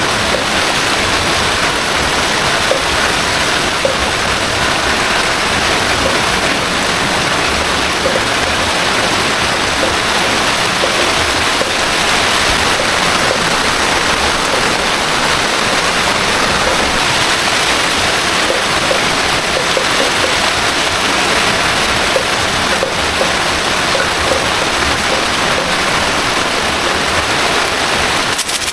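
Heavy rain and running water making a loud, steady, dense rush, with faint small drop ticks scattered through it.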